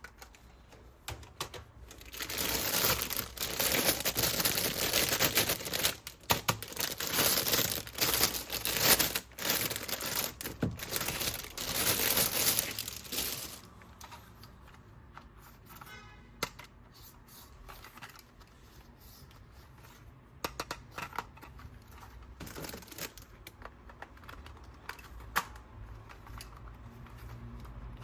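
Plastic toy packaging being torn open and crinkled, a dense crackling for about eleven seconds, then quieter handling with scattered small clicks.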